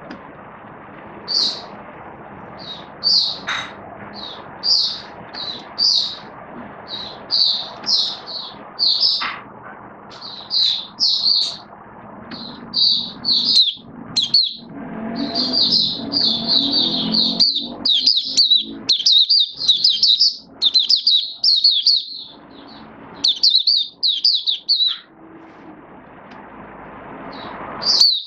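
A white-eye (mata puteh) singing: short high chirps at first, spaced about half a second apart, that build about halfway through into a dense run of rapid twittering lasting some ten seconds, then break back into separate chirps.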